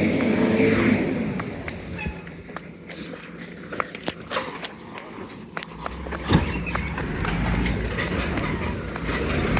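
Diesel engine of a Volvo WX42 garbage truck with a Heil Rapid Rail body, running loud at first, then quieter for several seconds with scattered short clanks and knocks. About six seconds in there is one sharp short sound, and the engine grows louder again to the end.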